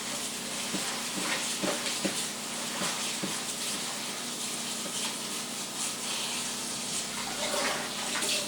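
Tap water running over moringa leaves in a colander, with small splashes and rustles as the leaves are turned under the stream.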